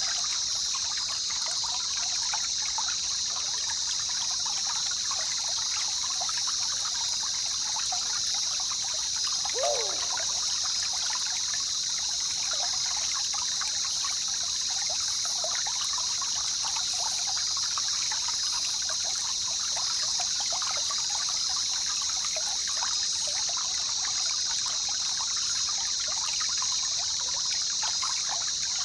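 A jungle river trickling and babbling steadily, under a constant high-pitched hiss. About ten seconds in, a brief sound drops in pitch.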